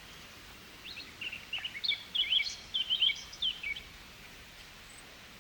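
A small bird chirping a rapid, jumbled string of high notes for about three seconds, starting about a second in, over a faint steady background hiss.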